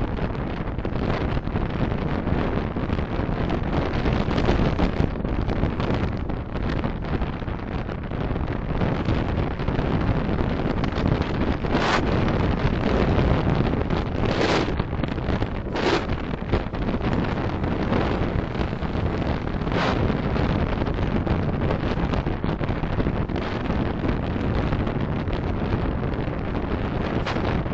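Steady road and wind noise of a car driving, picked up by a dashcam microphone, with a few short, louder noises around the middle.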